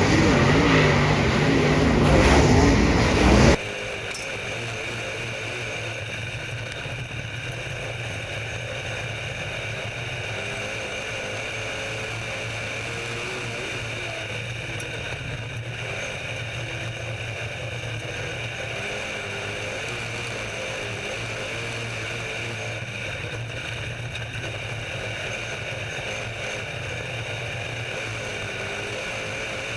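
Engine noise that cuts abruptly about three and a half seconds in from a louder passage to a steady, lower drone with only slight wavering in pitch.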